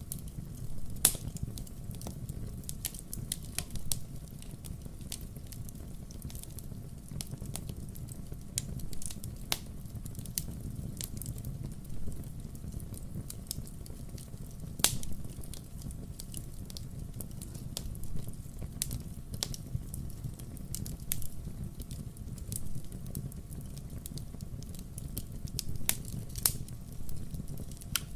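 Wood fire crackling: irregular sharp pops and snaps over a steady low rumble of burning logs, with louder snaps about a second in and about halfway through.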